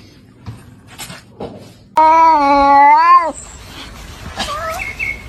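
A cat gives one long, loud meow about two seconds in, lasting just over a second, after a few soft clicks. Fainter, shorter calls follow near the end.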